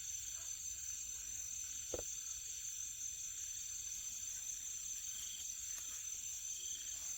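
Insects chirring in a steady, high-pitched chorus, with one light knock about two seconds in.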